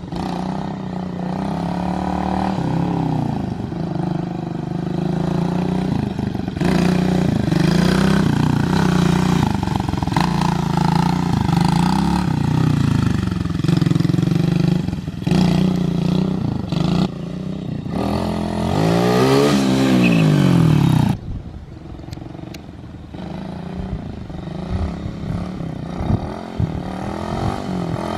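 Chinese 125cc single-cylinder pit bike engine revving up and down as it is ridden, its pitch rising and falling again and again. About three-quarters of the way in the loud engine sound drops off suddenly and the engine is fainter after that.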